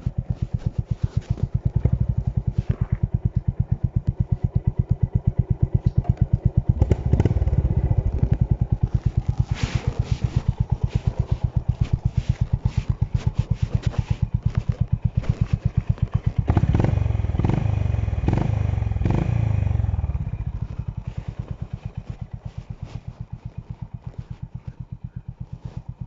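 Honda H'ness CB350's single-cylinder engine and exhaust on the move, with an even pulsing beat. It gets louder for a few seconds a little past halfway, then eases off and runs noticeably quieter near the end.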